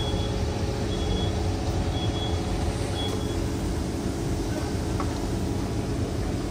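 Steady hum and rumble inside the cabin of a Kawasaki C151 MRT train standing at a station with its doors open. Short high beeps sound about once a second during the first half.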